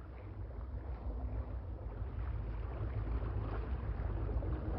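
Steady low rumble of a boat trolling, with wind noise on the microphone, slowly growing louder.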